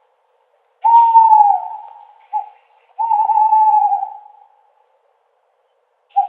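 An owl hooting: two long hoots, each falling slightly in pitch, each followed by a short single note, with silent gaps between the calls.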